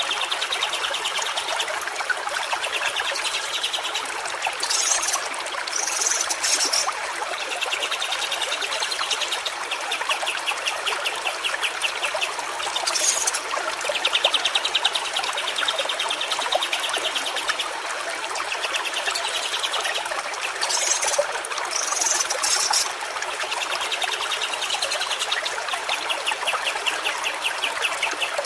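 Stream water running steadily. Over it, a rapid pulsing trill returns every few seconds, and short high chirps come now and then.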